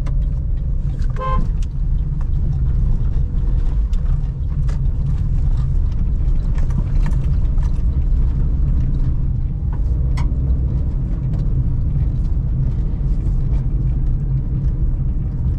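Steady low rumble of a Suzuki Celerio being driven through town traffic, engine and road noise together, with a short vehicle horn toot about a second in.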